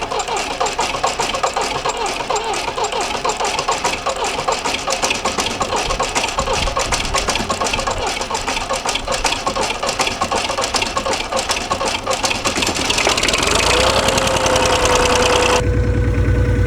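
Cold start of a 1959–60 Volvo BM tractor's 3-cylinder Perkins diesel after months unused: the starter cranks it with a fast, even rhythm for about 13 seconds, then the engine catches and runs louder, with a steady whine near the end.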